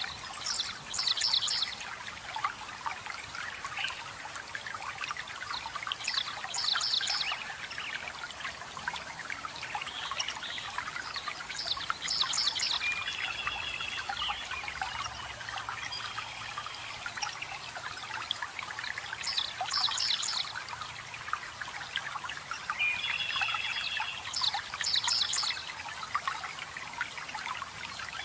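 Water trickling and splashing steadily, with a bird repeating a short burst of rapid high notes about every five to six seconds and a lower trill twice in between.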